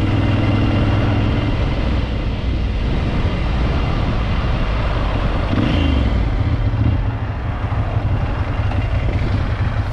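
Motorcycle engine running steadily while riding, its low hum under a constant rush of air noise.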